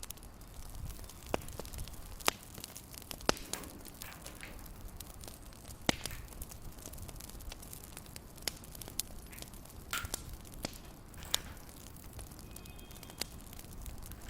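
Fireplace fire crackling, with irregular sharp pops and snaps.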